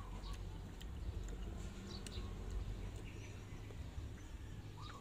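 Faint chewing and sucking mouth sounds from eating santol fruit, with short clicks scattered throughout over a low steady rumble, and chickens clucking in the background, one short call near the end.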